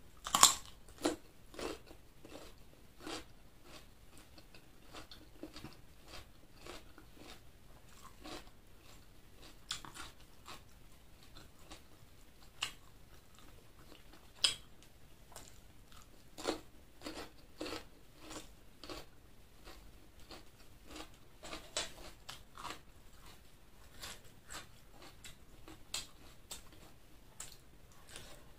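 Close-miked eating of chicken liver and gizzard with rice: chewing and biting with wet mouth clicks and crunches at irregular intervals, the loudest about half a second in.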